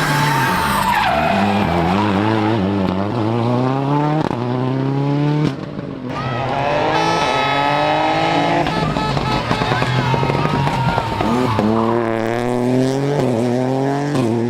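Rally car engine revving hard, its pitch climbing several times as it accelerates through the gears, with a short drop in level about five and a half seconds in.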